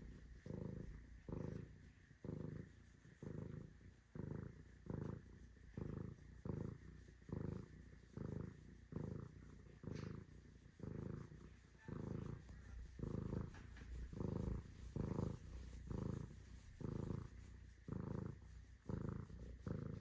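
Domestic cat purring steadily. The purr swells and fades with each breath in and out, about three pulses every two seconds.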